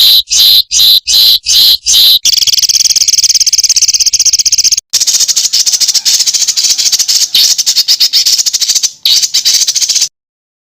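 Songbird calling loudly: short high notes repeated about three times a second, then long rapid rattling trills broken by brief pauses. It stops abruptly about ten seconds in.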